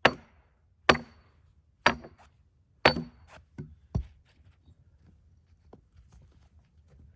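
A hammer striking a steel splitting wedge four times, about a second apart, each blow with a short metallic ring, as the wedge is driven into a cedar log to split a rail. Two lighter knocks follow.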